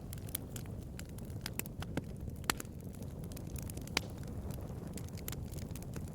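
Wood bonfire crackling: irregular sharp pops and snaps over a steady low rumble of the burning fire, with two louder pops near the middle.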